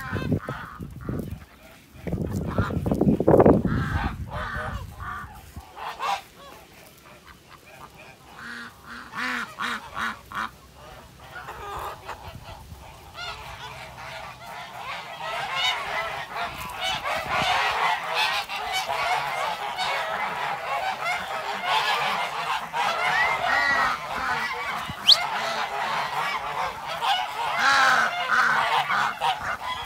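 A flock of birds calling together: scattered calls at first, then a dense, overlapping chorus that builds from about halfway in. Near the start there is a loud, low rumbling noise lasting about two seconds.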